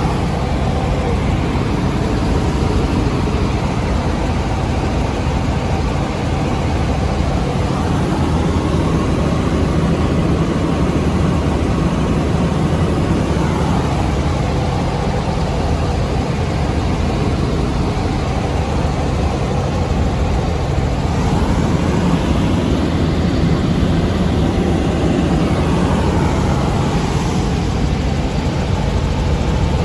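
Helicopter engine and rotor noise: a steady, loud drone with a low hum underneath.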